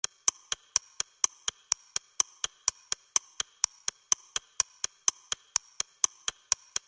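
Steady, evenly spaced high-pitched ticking, about four ticks a second.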